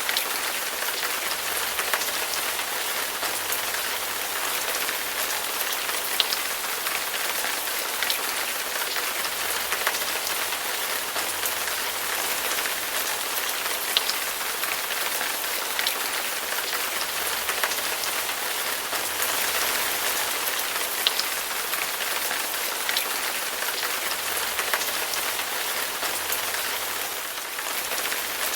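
Heavy rain falling steadily, a dense hiss with scattered sharper drop ticks on a hard surface.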